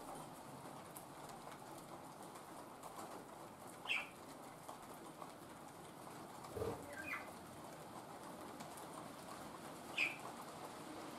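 Steady rain. Three times, short high calls fall quickly in pitch from a bird, the last the loudest, and a brief low, muffled sound comes a little past the middle.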